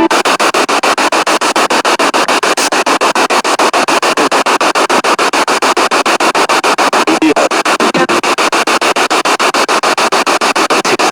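Spirit box radio sweeping through stations: loud hissing static chopped into rapid, even pulses as the tuner jumps from frequency to frequency, with brief fragments of broadcast sound in between.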